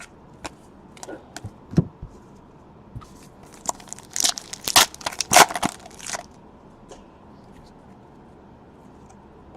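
Foil wrapper of a trading-card pack crinkling and tearing as the pack is ripped open, a burst of crackling about halfway through after a few light clicks of cards and packaging being handled.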